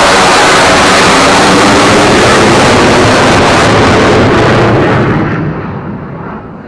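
Jet aircraft passing very loud and close, a dense roar whose pitch slides slightly downward. It fades away over the last couple of seconds.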